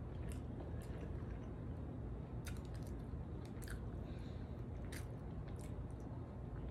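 A person chewing a mouthful of food, with short wet smacks and clicks at irregular intervals over a low steady hum.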